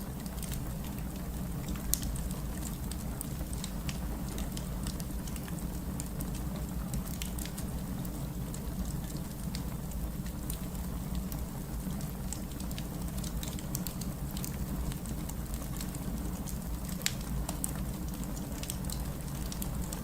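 Wood fire burning in a fireplace: a steady low rumble of the flames with frequent sharp crackles and pops scattered throughout, two louder pops about 2 seconds in and near 17 seconds.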